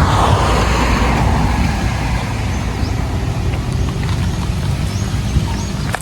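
Road traffic: a steady low rumble, with a vehicle passing that swells in the first second and fades over the next two.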